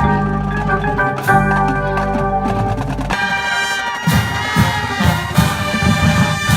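A band playing, with brass holding long chords. A brighter chord comes in about three seconds in, and a steady drumbeat joins about a second later.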